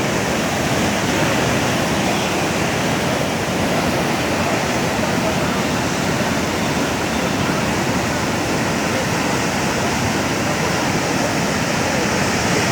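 Floodwater from a heavy downpour rushing along and over a street in a steady, even torrent.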